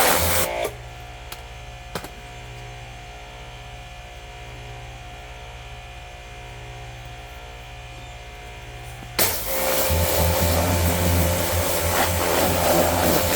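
Pressure washer spraying water, cut off about half a second in. For some eight seconds only a steady low hum remains, with one sharp click near two seconds, then the spray starts again abruptly near nine seconds.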